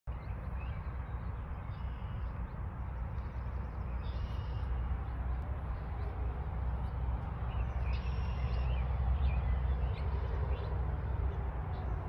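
Small birds chirping briefly, several times, over a steady low outdoor rumble.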